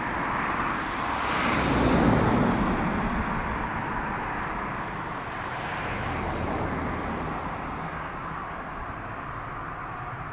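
Aircraft engine noise as a plane passes, loudest about two seconds in and then slowly fading away.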